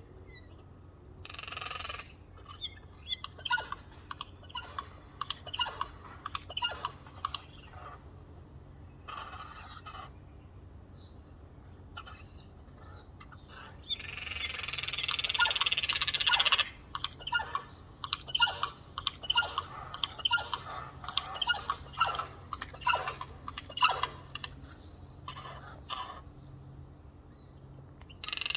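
A group of Eurasian jays calling, with harsh screeching calls and quick clicking notes that come in bursts. One long harsh call comes about midway.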